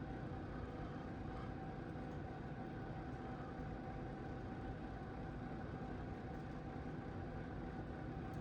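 A machine running steadily, with a constant hum that does not change.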